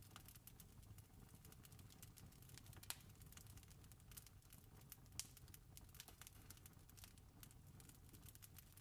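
Wood fire crackling with many small pops, two louder snaps about three and five seconds in, over a faint low rumble.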